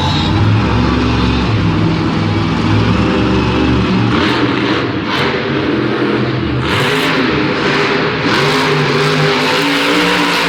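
Monster truck engine running loud and revving, its pitch rising and falling. A heavy low rumble gives way about four seconds in to harsher surges of revving.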